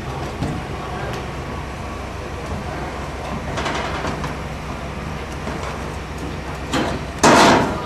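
Roofing work overhead: a steady low machine hum with scattered scraping noises, and a loud rushing scrape near the end.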